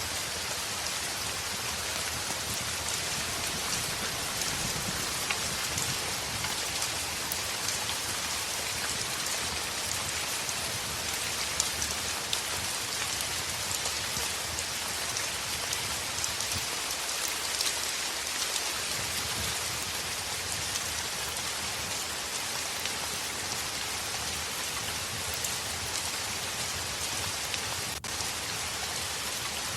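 Heavy rain falling on window glass: a steady, dense hiss with many small drop ticks scattered through it.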